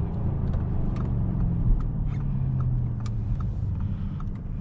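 Audi S7 running at a steady cruise, heard from inside the cabin: a low engine drone with tyre and road noise. A low hum within it eases off about three seconds in.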